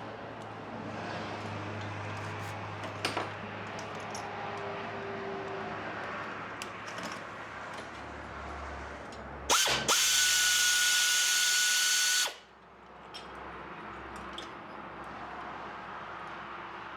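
A cordless power tool, of the drill or driver kind, spins up and runs at a steady pitch for about three seconds near the middle, then stops sharply. Scattered clicks and clinks of hand tools and loose parts come before and after it.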